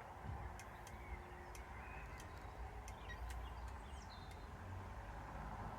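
Faint steady background hum with scattered short, high chirps like small birds and a few light clicks.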